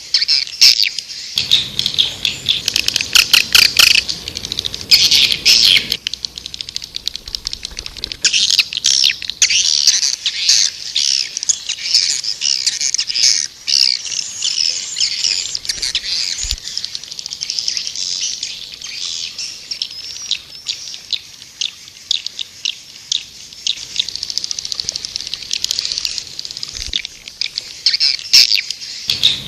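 Recorded white-nest swiftlet calls: a dense, unbroken chorus of high twittering chirps and clicks from many birds. This is the call sound played to lure swiftlets into a swiftlet house.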